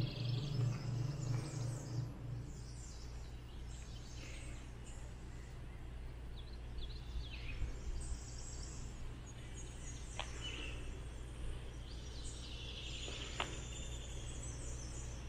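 Short, high bird chirps and twitters come and go over a steady low background hum. A pulsing low throb fades out in the first couple of seconds, and two sharp clicks come later.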